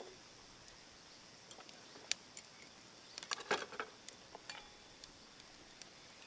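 Scattered light clicks and taps against a quiet background, with a sharper one about two seconds in and a small cluster about three and a half seconds in.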